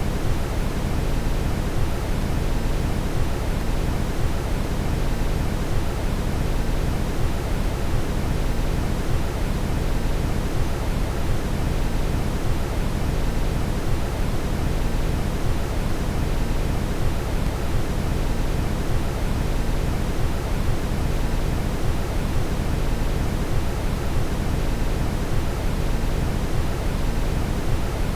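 Steady brown noise: a deep, even rushing hiss weighted heavily toward the bass, unchanging throughout.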